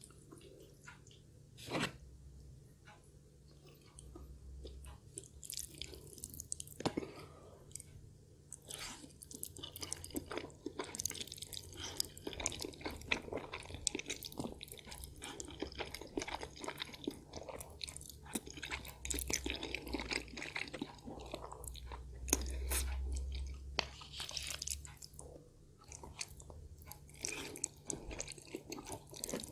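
Close-up chewing of a mouthful of Korean black bean noodles (jjajangmyeon): many small wet mouth clicks going on steadily, with one louder click about two seconds in.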